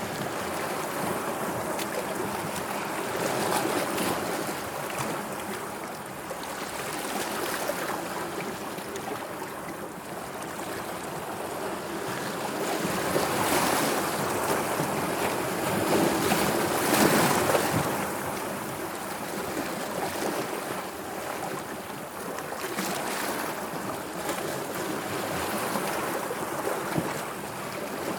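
Sea waves washing in, a steady rush of water that swells and eases every few seconds, with the biggest surge about two-thirds of the way through.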